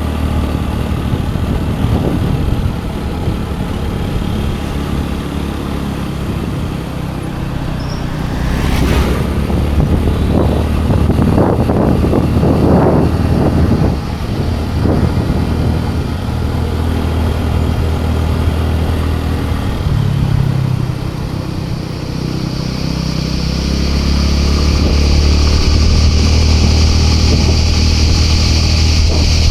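Scooter engine running on the move, a steady low hum with road and wind noise. In the middle there are several seconds of louder, shifting sound, and from about two-thirds of the way in the engine grows louder with a high hiss added.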